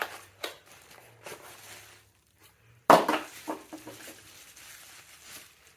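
Clicks and clinks of small metal parts and tools being handled while fitting an e-bike headlight to its bracket, with one sharp, loud knock about three seconds in.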